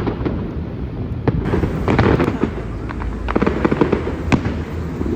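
Fireworks going off: rapid crackling bangs in two dense clusters, with a single sharp bang about four seconds in.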